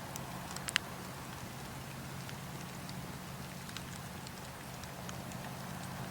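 Campfire crackling: a steady hiss with scattered sharp pops, the loudest snap under a second in and a few fainter ones later.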